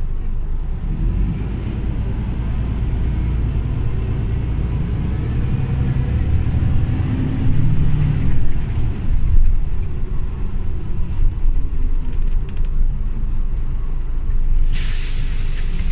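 Scania OmniLink CL94UB city bus engine running under way, rising in pitch and getting louder midway as the bus pulls. Near the end a sudden loud hiss of compressed air starts from the bus's pneumatics.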